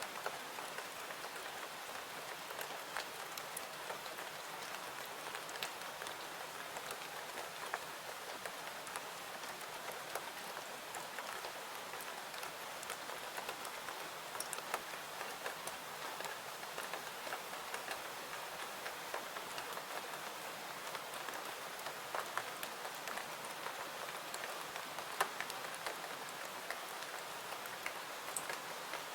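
Steady rainfall: an even hiss of rain with many small sharp ticks and pops scattered through it.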